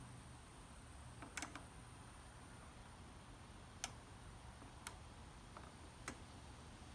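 Faint, quiet room with a low steady hum and a handful of sharp, irregular clicks or ticks: a double click early on, then three single ticks about a second apart.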